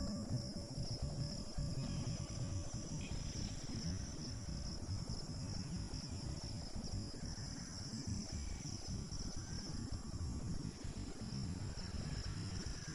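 A steady, high-pitched chorus of insects droning without a break, over an irregular low rumble.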